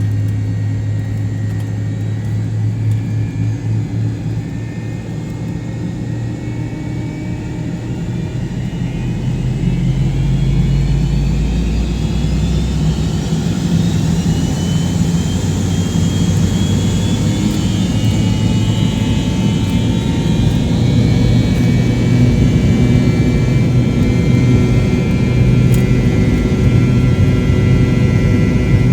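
An MD-88's rear-mounted Pratt & Whitney JT8D turbofan engines, heard from inside the cabin, spooling up: a rising whine starts about ten seconds in, and the engines then run louder and steady.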